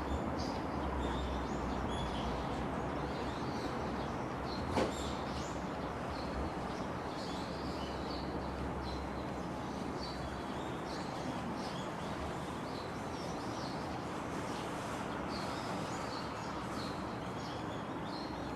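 Small birds chirping repeatedly over a steady outdoor background noise, with one sharp click about five seconds in.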